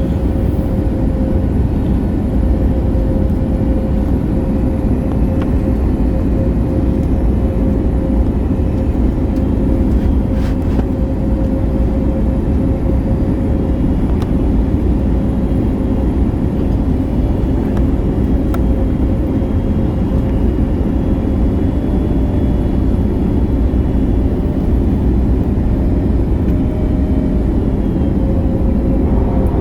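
Airbus A321neo jet engines and airflow heard from inside the passenger cabin: a loud, steady rumble with a constant hum-like tone running through it.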